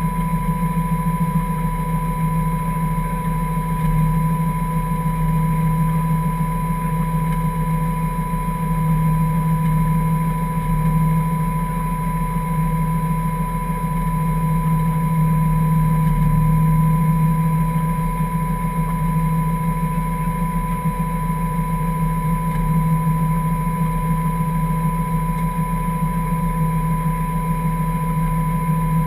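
Toyota 1JZ 2.5-litre straight-six in a Ford Escort hillclimb car idling steadily while the car sits stationary, heard from inside the cabin, with a steady high whine over the engine note.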